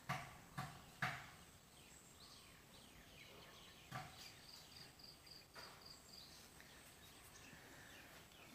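Faint background of small birds chirping, including a quick run of even high pips in the middle. A few soft knocks come in the first second, with more about halfway through.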